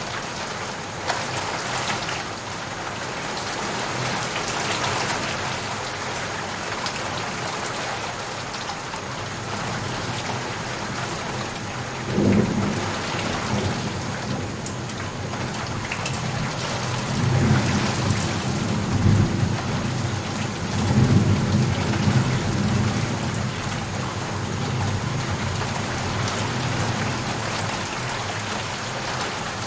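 Steady rain falling, with thunder: a sudden low clap about twelve seconds in, then a long low rumble rolling through the middle of the stretch before fading back to rain alone.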